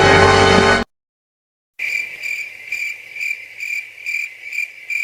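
Music cuts off abruptly under a second in; after about a second of silence, a crickets-chirping sound effect starts, a high chirp repeated about twice a second. This is the stock 'crickets' gag used to mark an awkward silence.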